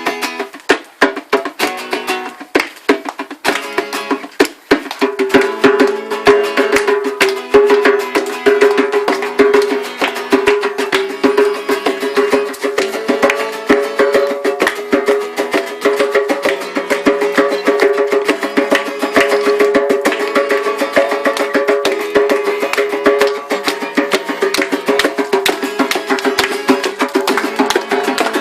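Acoustic guitar being strummed along with a djembe played by hand: a dense, steady run of drum strokes over sustained chords.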